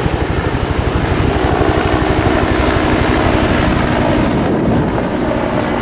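Wind buffeting the microphone: a loud, uneven low rumble with a steady rush of noise above it.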